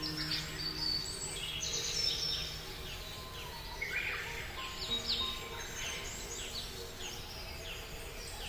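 Many small birds chirping together: quick, high, downward-sliding calls that overlap and keep coming.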